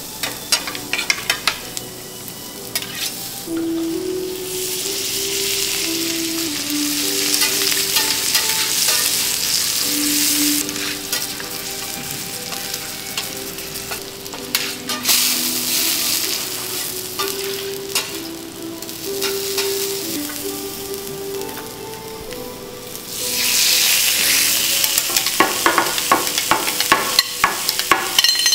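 Sliced garlic and mushroom sizzling on a hot teppanyaki steel griddle. The sizzle swells and fades in waves and grows loudest near the end. Metal spatulas click and scrape on the steel plate throughout.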